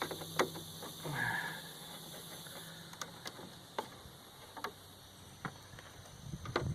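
Scattered light clicks and ticks of screws being taken out of a window air conditioner's sheet-metal shroud, with a brief squeak about a second in.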